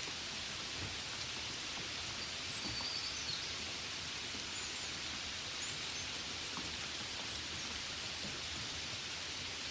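Gentle rain falling on a window, a steady even hiss with no change in strength, and a few faint high chirps now and then.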